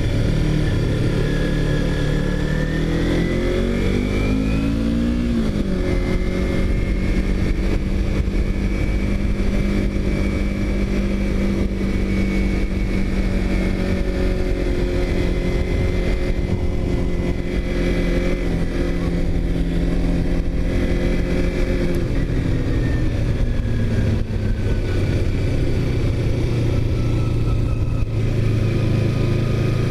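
A vehicle engine under way: the revs climb over the first few seconds, hold steady at cruising speed, then drop about three-quarters of the way through and settle at a lower, steady pitch.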